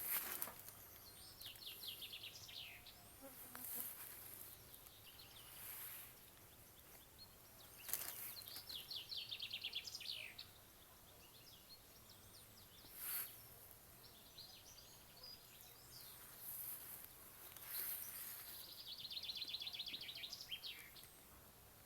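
A songbird singing three phrases of rapid trilled notes, each about two seconds long and roughly eight seconds apart, with a few faint chirps between them. Several brief rustles or knocks are mixed in.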